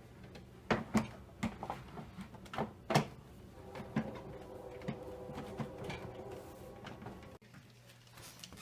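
Dishwasher door and inner panel being handled, with several sharp plastic-and-metal knocks and clicks in the first three seconds. Then a steady hum with scattered clicks, which cuts off sharply near the end.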